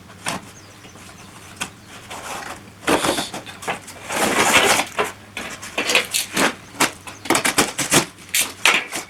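Irregular knocks, clinks and scrapes of metal workpieces being handled and set down, with a longer scraping stretch a little past the middle and the knocks coming thicker toward the end.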